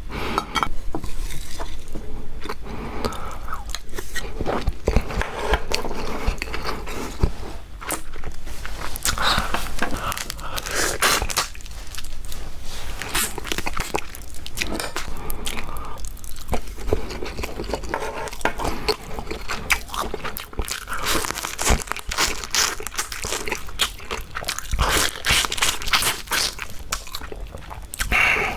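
Close-miked eating of marinated raw crab: irregular crunching and biting through the shells, with chewing in between.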